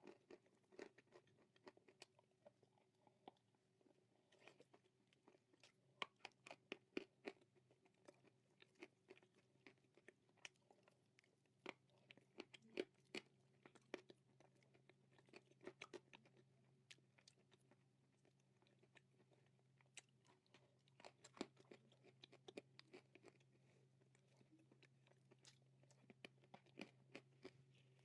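Dry roasted edible clay (nakumatt) being chewed close to the microphone: a long run of crisp, irregular crunches, several a second, over a faint steady low hum.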